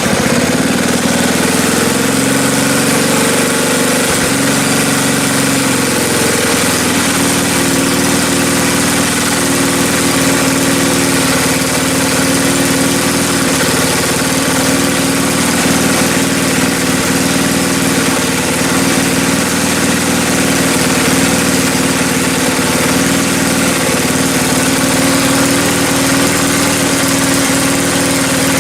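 Small snowblower engine running, its speed climbing and wavering over the first several seconds before settling into a steady run.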